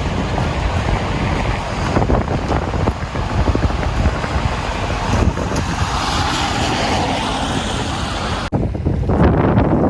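Wind buffeting the microphone in gusts, over the noise of a city street with traffic; the sound cuts out for an instant about eight and a half seconds in.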